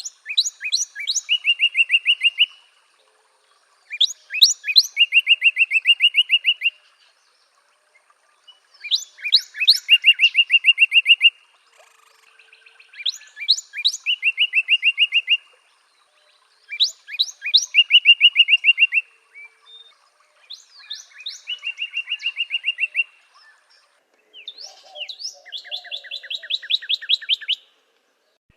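A songbird singing the same song over and over, about seven times. Each song is a few sharp high notes followed by a fast, even trill lasting a couple of seconds, with short silent pauses between songs. The last song, near the end, has a different pattern.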